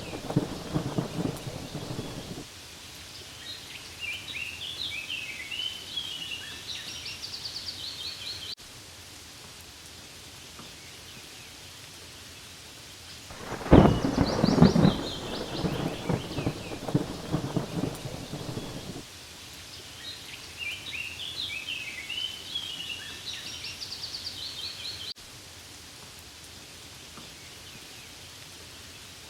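Steady rainfall, with a loud rolling rumble of thunder about 14 seconds in that dies away over several seconds. Short high warbling notes come through twice, between the rumbles.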